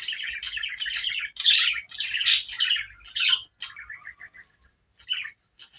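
A bird chirping in quick runs of high calls, dense at first and thinning to a few scattered chirps near the end.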